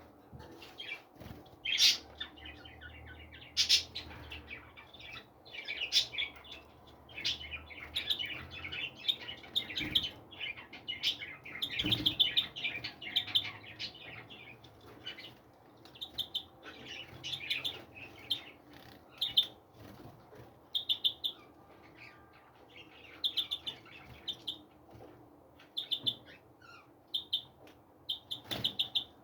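Small songbirds chirping and twittering, a busy jumble of overlapping calls in the first half, then separate short chirps repeated every second or two.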